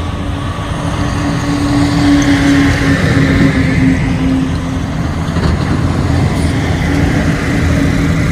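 A motor vehicle running: a steady engine hum over continuous road noise.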